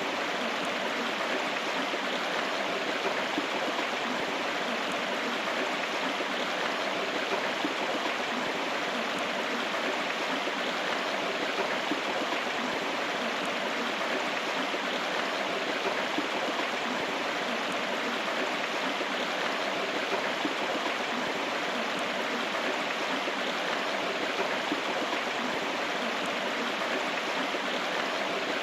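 River water flowing, a steady rushing babble with no change in level.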